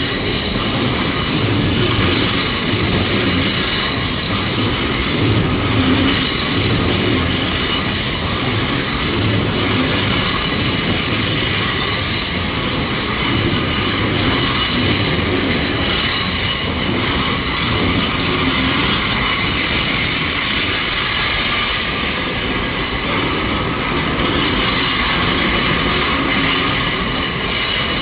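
Hitachi IET trains (Class 800 and 802) moving through the station: a low rumble under a steady high-pitched whine of several held tones.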